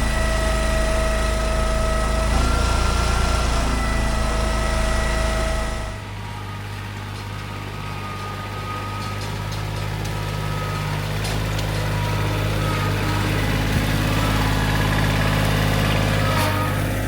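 Engine running steadily at high speed, then about six seconds in the sound changes abruptly to a quieter, lower, steady engine hum.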